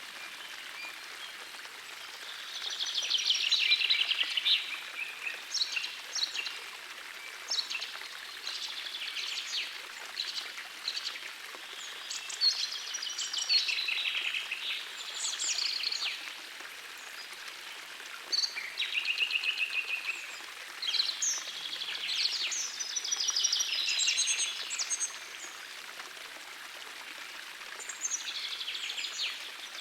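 Songbirds singing short, rapid trilled phrases one after another over the steady rush of a forest stream. The song pauses for a couple of seconds near the end, then starts again.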